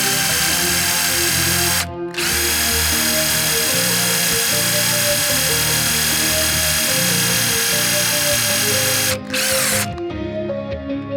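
Small electric rotary tool running at a steady speed. It runs in long stretches, breaks off briefly about two seconds in, starts again, and stops for good about ten seconds in after a short final burst. Background music plays underneath.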